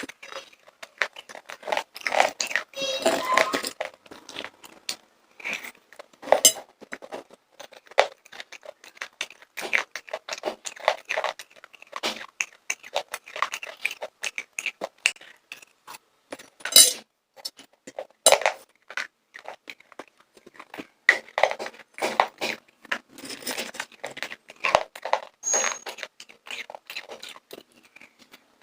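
Popcorn being eaten close to the microphone: a dense, irregular run of crunching and chewing sounds, with a few louder single cracks.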